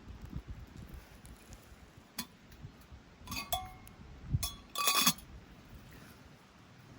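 Metal camp gear clinking and knocking together. A single tap comes about two seconds in, then a few ringing clinks around three and a half seconds, and the loudest quick cluster of clinks about five seconds in.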